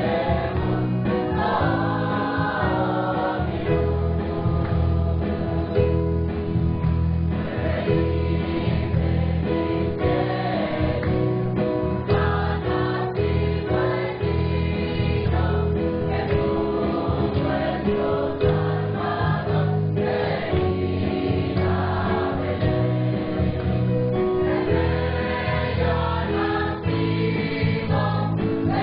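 A choir singing a Christmas medley with instrumental accompaniment, continuous throughout.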